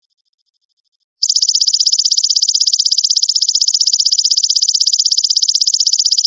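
Belalang emas insect calling: a loud, rapid trill of even pulses, about a dozen a second. It starts a little over a second in, after a pause that holds only a faint ticking.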